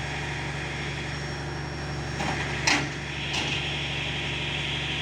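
Engine of a digging machine running steadily at demolition work, with a few short knocks and scrapes in the middle.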